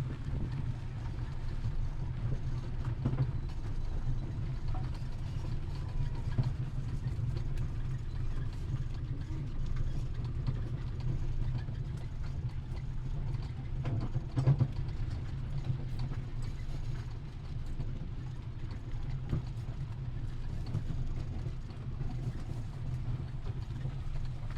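Wind buffeting the microphone: a steady, fluctuating low rumble, with one brief louder gust about fourteen seconds in.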